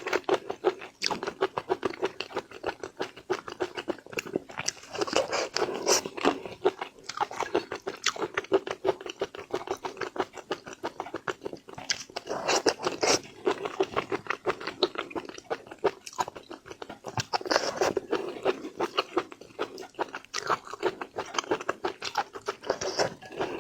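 Close-miked chewing and crunching of seafood, a dense crackle of wet bites that swells into louder bouts every few seconds.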